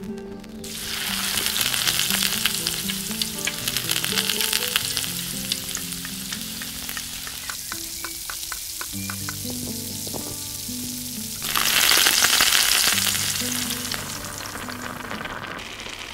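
Food sizzling in hot oil on a miniature tawa. The sizzle starts about a second in and dies down, with a few light ticks. It then flares up louder again about two-thirds of the way through before fading.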